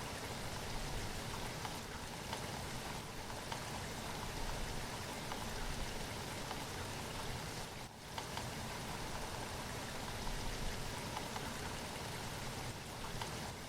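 Steady rainfall: an even hiss of rain with many small drops ticking on a surface, briefly dipping about halfway through.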